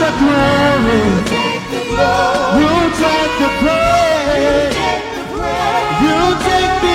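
Gospel worship music: voices singing with gliding, sustained notes over a steady instrumental backing with bass.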